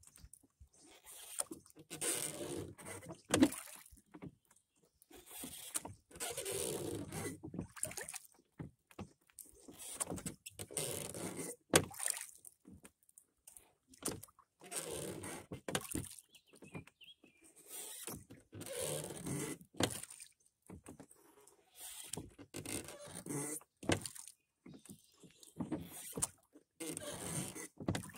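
Oars of a rowing wherry pulling through the water in slow, regular strokes, a swishing swell about every three seconds, with an occasional sharp knock.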